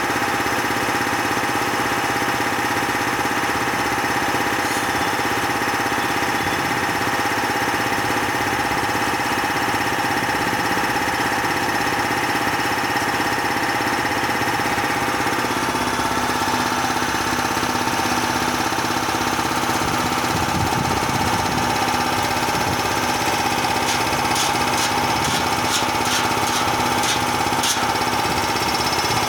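Bauer 330-bar high-pressure piston compressor running steadily with a hard, knocking mechanical beat. Near the end, several short, sharp high hissing sounds cut in over it.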